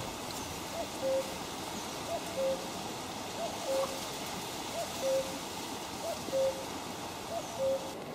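A bird's two-note hooting call, a short higher note then a longer lower one, repeated seven times about every 1.3 seconds.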